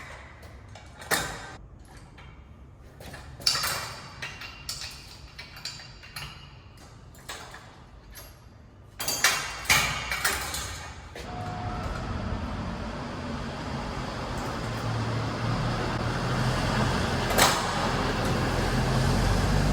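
Knocks and metal clanks as lifting gear is handled under a motorcycle to raise its rear wheel, then a steady mechanical hum with hiss for about eight seconds that grows slightly louder and stops abruptly.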